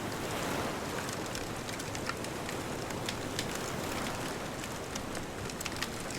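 Wood bonfire crackling, with sharp pops scattered irregularly over a steady wash of distant ocean surf.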